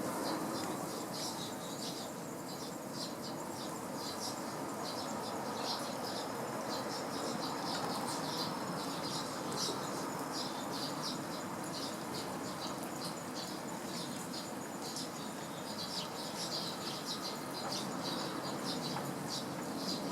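Eurasian tree sparrows chirping, many short irregular chirps in quick succession.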